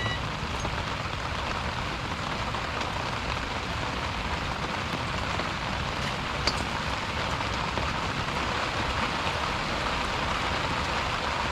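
Steady, rain-like pattering of water, with a single sharp click about six and a half seconds in.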